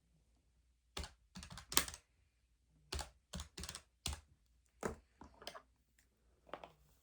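Keys being tapped in short, irregular runs of clicks, starting about a second in.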